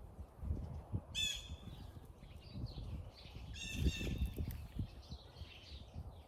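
A crow cawing, one harsh call about a second in and a run of calls around four seconds in, over the low scraping and rustling of hands digging in garden soil.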